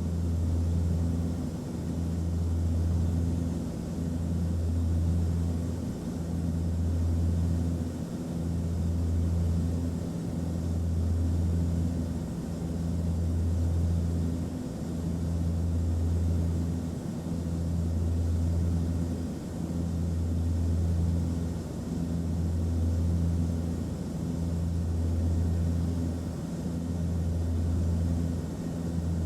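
Airliner cabin noise: a steady low engine-and-airflow drone that swells and fades gently about every two seconds.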